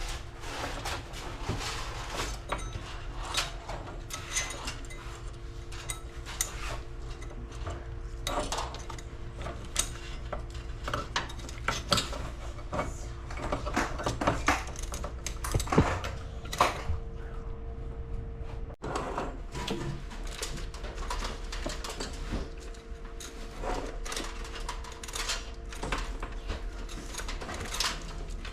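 Irregular clicks, knocks and clatter of small hard objects being handled and set down, over a steady low hum.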